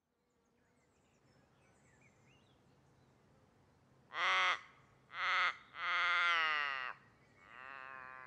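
A bird gives four loud calls, starting about four seconds in: two short calls, then a long call falling in pitch, then a fainter falling call. Before them there is faint outdoor background with a few distant chirps.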